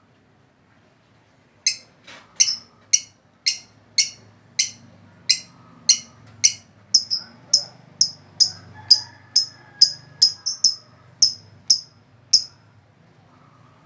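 Lovebird calling in a long series of short, sharp high-pitched chirps, about two a second.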